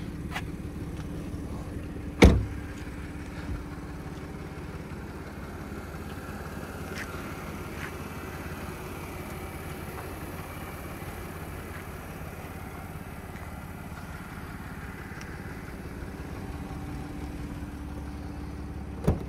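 The 2012 Audi Q5's 3.2-litre V6 idling with a steady low hum. About two seconds in, a single loud thump, a car door being shut.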